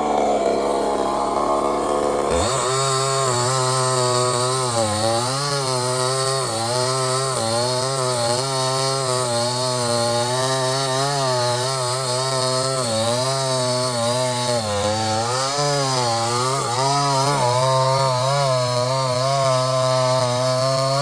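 Two-stroke chainsaw running at high revs while cutting wood, its pitch dipping and rising every second or so as it loads in the cut. The sound shifts abruptly about two seconds in.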